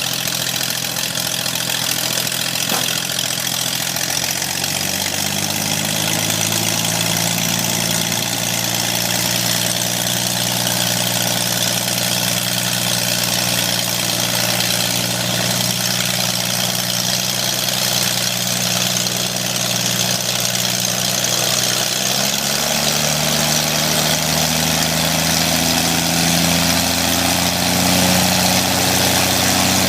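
Corvair air-cooled flat-six engine on a Pietenpol airplane running on its first start, its speed stepping up twice: about four seconds in and again about two-thirds of the way through.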